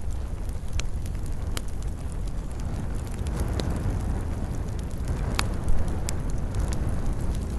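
Campfire of burning wood: a steady low rushing of the flames, broken by a handful of sharp crackles and pops scattered through it.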